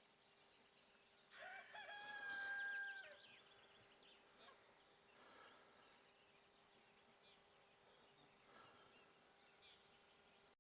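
A rooster crowing once, faintly, about a second and a half in: a rising start, then a long held note of about two seconds.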